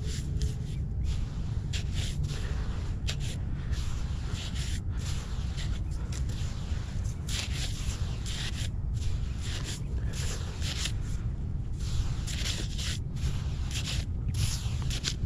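Steady low wind rumble on the microphone, with irregular scraping and rustling of beach sand.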